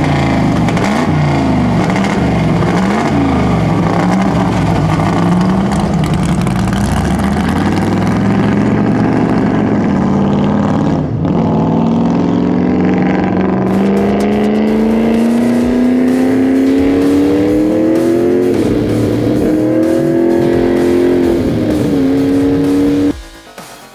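A 429 big-block V8 race car revs up and down a few times, then accelerates hard. The engine note climbs steadily in pitch through a couple of gear changes. The sound cuts off suddenly near the end.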